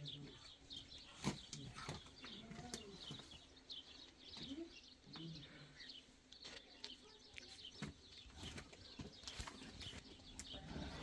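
Small birds chirping faintly and often, with scattered light clicks and knocks.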